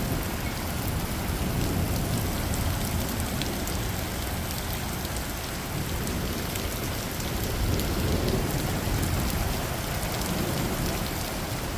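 Heavy rain falling steadily, with many small drop ticks over a dense hiss and a low rumble underneath.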